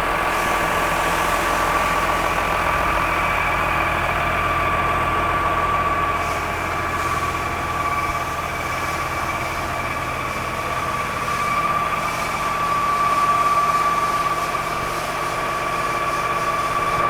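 Massey Ferguson 6490 tractor's diesel engine idling steadily, with a steady high whine over the engine hum.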